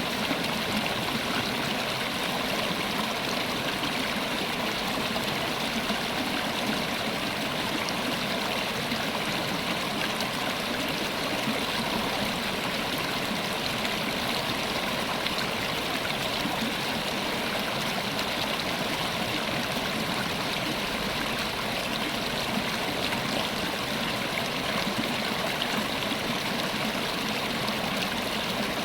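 River water flowing steadily over rocks, a constant rushing and burbling with no breaks.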